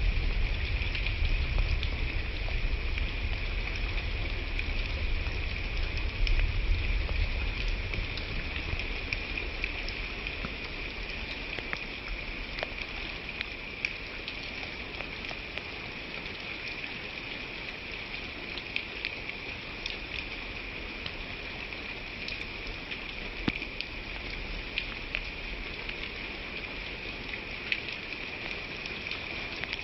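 Steady rain falling: an even hiss with scattered sharp drop ticks. A low rumble sits under it for the first several seconds, then dies away.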